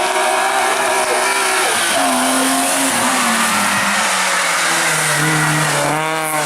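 Rally car engine running hard, its pitch dropping in steps as it changes gear, with tyre and road noise underneath. The engine note falls steadily toward the end as the car slows.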